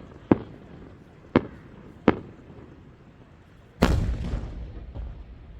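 Aerial fireworks shells bursting: three sharp bangs about a second apart, then a louder boom about four seconds in that rumbles and crackles away over a second or so.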